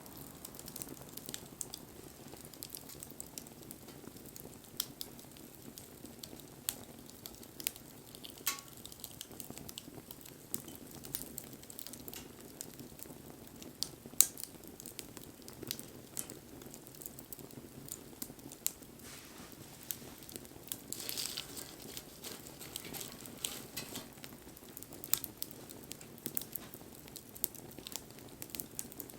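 Wood campfire burning: a steady low hiss of flames with scattered crackles and pops from the burning wood. One sharp pop about halfway through is the loudest, and there is a brief hiss a little later.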